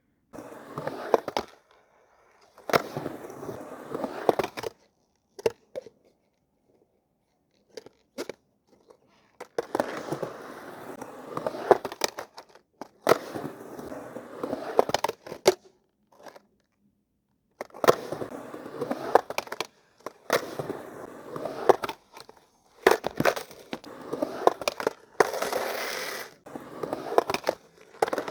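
Skateboard wheels rolling and grinding on hard ground, with sharp clacks of the board and trucks. It comes in several runs of a few seconds each, with short silent gaps between them.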